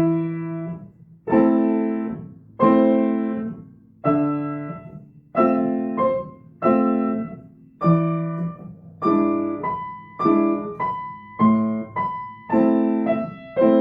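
Piano played slowly with both hands: about eleven chords struck one after another, roughly one every second and a quarter, each left to ring and fade. A repeated higher note joins the chords in the second half.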